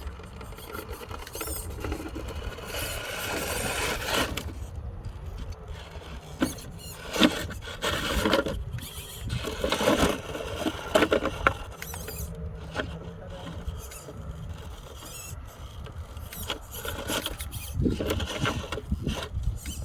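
Radio-controlled truck driven in bursts: its electric motor whines and the tyres squeal and scrape as it runs.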